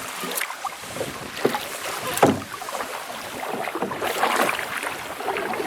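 Canoe paddling: water splashing and dripping with each paddle stroke, with one stronger stroke about two seconds in, and some wind.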